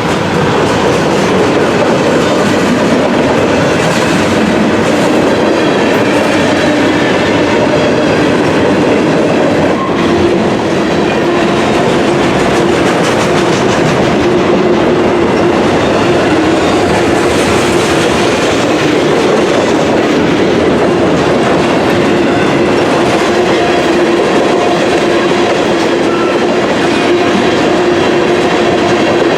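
Norfolk Southern freight train rolling slowly past, its wheels clacking over the rail joints in a steady, loud run of car noise. A steady whine joins about ten seconds in.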